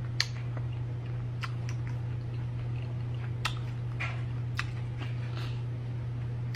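Close-up chewing and mouth sounds from eating chicken dipped in cheese sauce, with a few scattered sharp wet clicks over a steady low hum.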